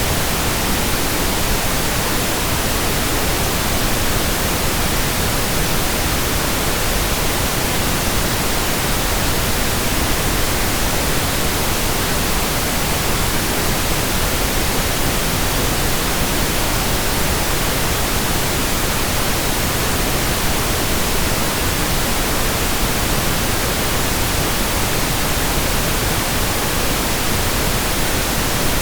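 Steady synthetic pink noise: an even, unbroken hiss across the whole range, unchanging throughout.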